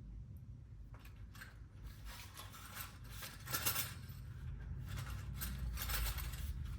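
Small metal hand tools clinking and rattling as they are picked through and handled, in irregular clusters starting about a second in and growing louder about halfway through.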